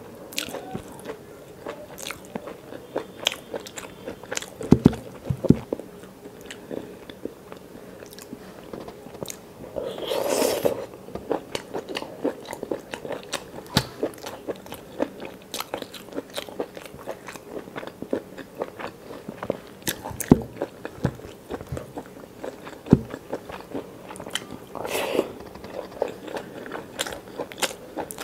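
Close-miked eating sounds from a person chewing and biting hand-eaten rice with chicken gizzard curry: frequent wet mouth clicks and small crunches. Two longer, louder chewing sounds come about ten seconds in and near the end.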